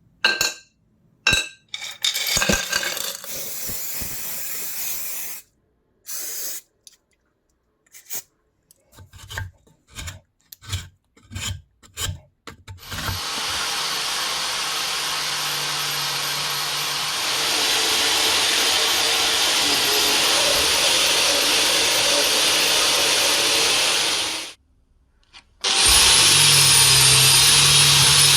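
Workshop handling with scattered knocks and short scraping strokes, then an electric power tool running steadily against a metal part for about eleven seconds with a high whine. It stops, and a motor starts up again near the end.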